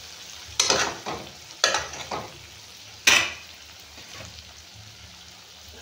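Spiced potatoes sizzling in oil in a kadhai while a spoon scrapes and stirs them in several strokes over the first two seconds, with one sharper, louder clank of the spoon about three seconds in. The sizzle then carries on alone.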